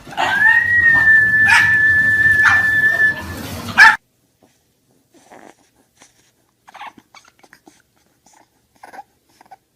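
A dog whining in one long, high, steady note for about three seconds. A short loud sound cuts it off about four seconds in, and after that there are only faint scattered small sounds.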